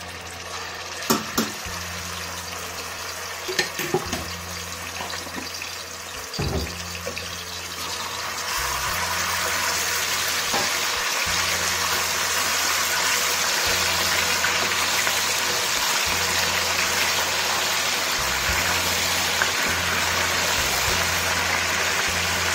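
Ginger-garlic paste frying in hot oil with cumin seeds in a steel pot, stirred with a wooden spoon. A few sharp knocks in the first seven seconds, then from about eight seconds in the sizzle grows loud and steady.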